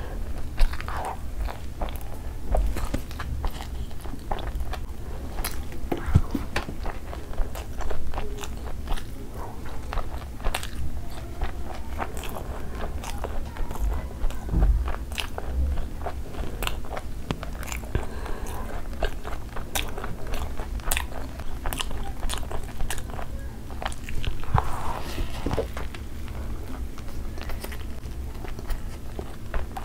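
Close-miked chewing and biting: a person eating mouthfuls of chicken shawarma, with many irregular crisp crunches and wet mouth clicks.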